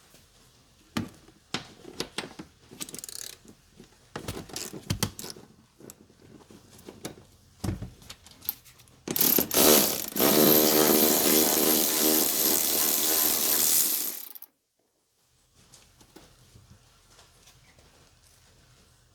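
Scattered clicks and knocks of tools and parts being handled, then about nine seconds in a loud motor-driven power tool runs steadily for about five seconds and cuts off suddenly.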